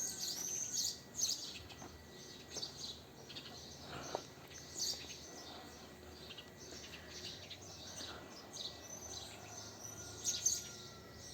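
Birds chirping outdoors: a scatter of short, high chirps and trills coming and going throughout, fairly quiet over a faint background hiss.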